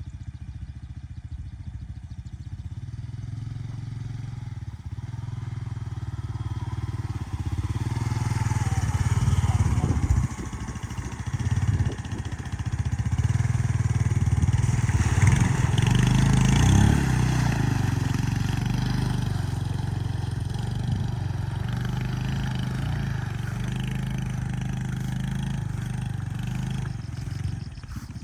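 Motorcycle engine running while riding, louder for several seconds around the middle, then settling back.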